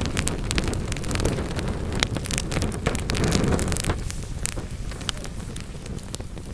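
Wood fire burning in a fireplace: a steady low roar of flame with frequent sharp pops and crackles from the logs, the roar easing about four seconds in while the crackling goes on.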